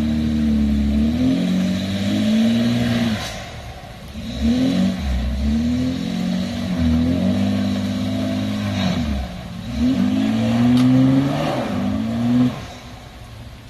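Jeep engine revving up and down in three spells on an off-road trail, dropping away about twelve and a half seconds in.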